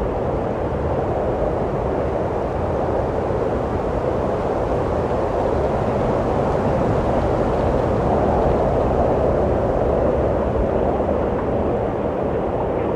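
Steady wind blowing, a continuous deep rushing sound that swells a little about eight seconds in.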